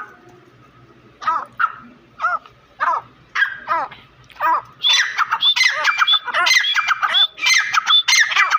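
Two grey francolins calling. After a short lull come single harsh, pitch-sweeping calls about two a second, then from about five seconds in a loud, dense run of overlapping repeated calls.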